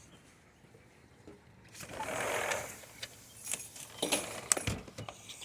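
A dog's collar tags jingling and clinking in a short cluster of metallic clicks, after a brief rustling whoosh and followed by a dull thump.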